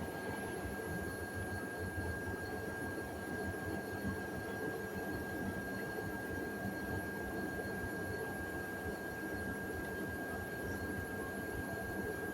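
Hoover washing machine running in sudslock, the state it enters when it detects too much foam, giving a steady low hum with a thin, steady high whine over it.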